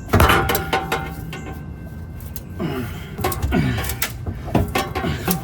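Metal clanks and knocks from work on a car's old rusted exhaust, opening with a loud clang that rings on, then scattered knocks and a few short squeaks.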